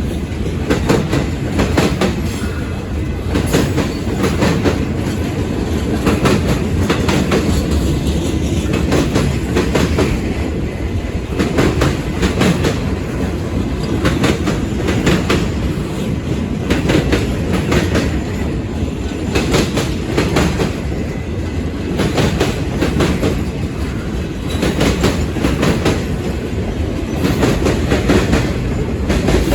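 Mixed freight train's cars rolling past, a steady low rumble with repeated clacks as the wheels cross rail joints.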